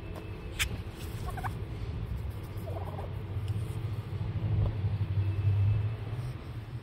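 Tom turkey gobbling briefly about three seconds in, over a steady low rumble. A sharp click is heard about half a second in.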